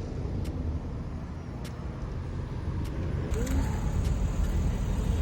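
Car engine running with a low rumble, easing off and then building again slightly from about two seconds in.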